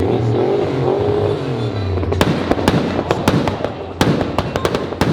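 A car engine revving during a burnout: its pitch falls over the first second or so. From about two seconds in, a rapid, irregular run of sharp crackling pops comes from the exhaust.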